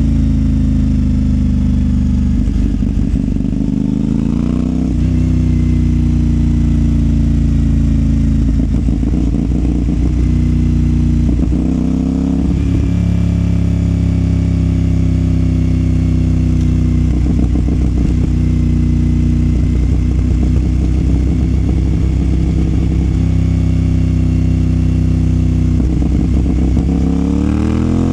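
CFMOTO 450SR motorcycle's parallel-twin engine running through a Yoshimura exhaust while riding, mostly at steady revs. The revs drop and climb again several times, with a clear rise near the end.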